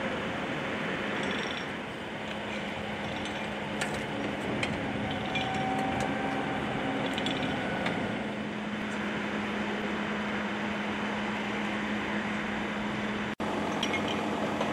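Steady vehicle and machinery background noise with a constant low hum and a few faint clicks, cut by a brief dropout near the end.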